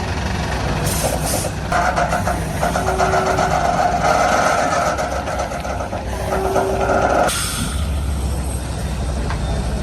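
Heavy truck engine running with a steady low rumble, with short air hisses about a second in and again near seven seconds. A mid-pitched whine is held from about two seconds in until about seven seconds.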